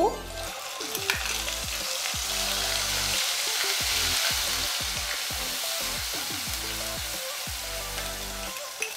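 Onion paste sizzling in hot oil with cumin seeds in a kadai, stirred with a wooden spatula. The sizzle swells over the first few seconds, then slowly eases, with light clicks of the spatula on the pan.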